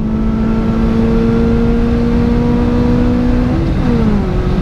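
Honda Civic's 1.5-litre D15 VTEC four-cylinder engine, heard from inside the cabin, pulling hard near 7,000 rpm with its pitch climbing slowly. A little past three and a half seconds in, the revs drop away and the pitch falls. The clutch is noticeably in need of replacement.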